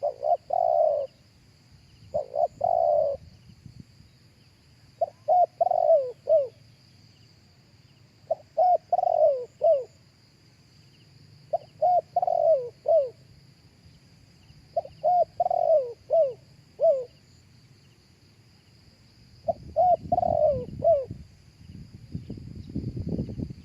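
Spotted dove cooing: seven phrases of three to five short coos, roughly every three seconds, each note falling in pitch. A faint steady high hiss runs underneath, and a burst of low rumbling noise comes in over the last few seconds.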